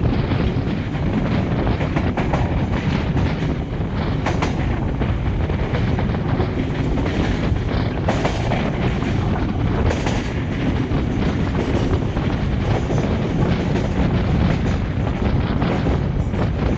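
Passenger train running at speed, heard close to the side of a carriage: a steady rumble of wheels on rail mixed with rushing air, broken by a few sharp clicks as the wheels cross rail joints.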